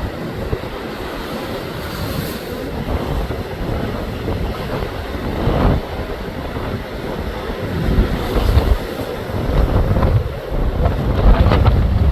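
Strong wind buffeting the microphone over the sound of high-tide waves surging in, with louder surges about halfway through and again near the end.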